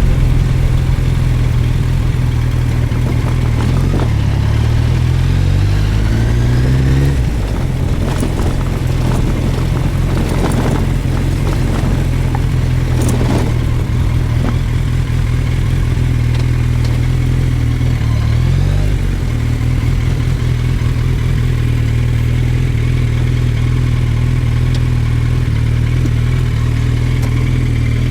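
Suzuki GSX1250FA's inline-four engine running steadily under way. Its pitch rises a few seconds in and drops back at a gear change, then shifts again about two thirds of the way through.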